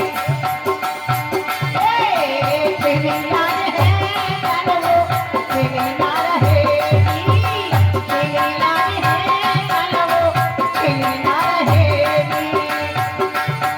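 Indian folk music: a hand drum beating a steady rhythm under a wavering melody line and held tones.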